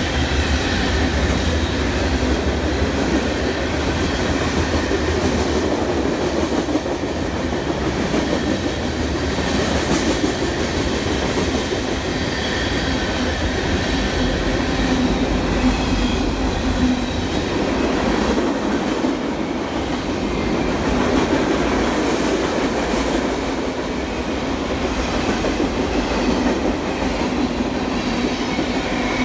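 Long Island Rail Road passenger train running on the tracks: a steady, continuous rumble of wheels on rail, with faint high squealing tones from the wheels.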